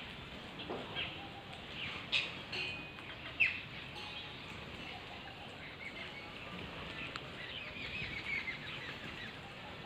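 Birds chirping and calling in short, scattered notes, loudest about two to three and a half seconds in and busiest again near eight seconds.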